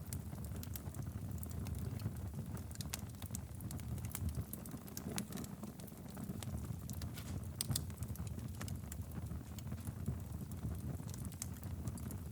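Wood fire burning in a fireplace, with a steady low rumble and frequent sharp crackles and pops at irregular intervals.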